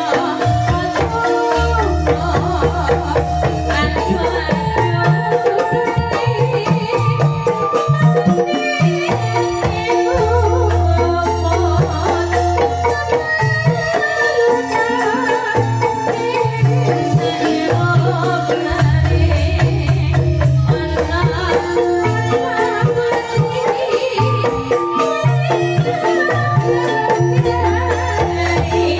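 Calung Banyumasan music: tuned bamboo calung xylophones playing a busy melody over hand drums, with long deep bass notes that come and go every few seconds.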